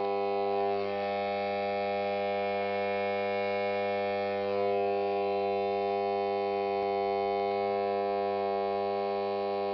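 Mains transformer powering a home-made HHO cell, humming steadily with the power on: a buzzy electrical hum made of a stack of even steady tones.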